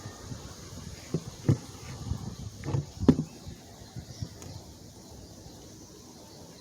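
A few light knocks and clunks of parts being handled, four or five in the first three seconds, then only a faint steady hiss.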